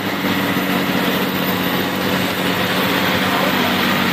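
John Deere 2020 tractor engine running at a steady speed, with an even, unchanging note.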